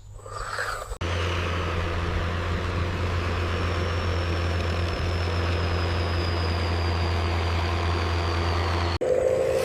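A truck-type engine idling steadily, a low constant hum with a faint high whine above it. It cuts in abruptly about a second in and cuts off abruptly near the end.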